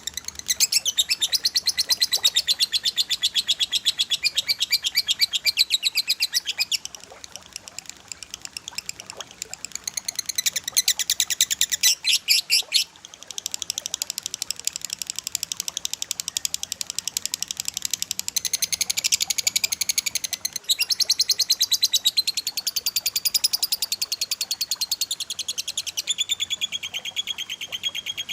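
Cililin and lovebird song: fast, densely packed runs of sharp, high chirps repeated many times a second. The runs come in loud and softer spells, with a quieter lull about a quarter of the way in and a brief break around the middle.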